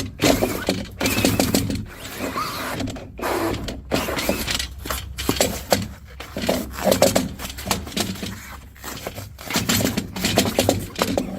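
A homemade power-tool attachment grinding and scraping wet foam out from inside a fiberglass boat stringer, in irregular stop-start bursts of crunching over a steady low motor hum.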